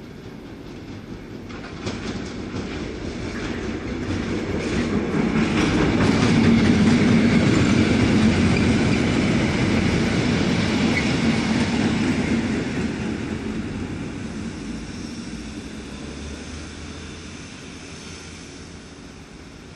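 A railhead treatment train of tank wagons, top-and-tailed by two GBRf Class 73 locomotives, passing with its wheels clattering over rail joints. The sound builds to its loudest about halfway through, then fades as the train goes away.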